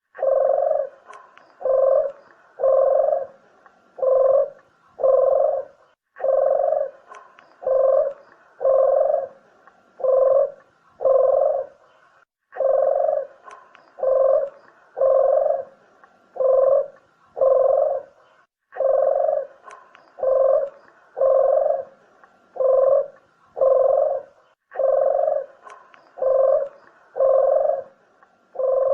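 Barbary dove (burung puter) cooing: phrases of about five low, evenly spaced coo notes, repeated roughly every six seconds. It is a call used as a lure for hunting or trapping doves.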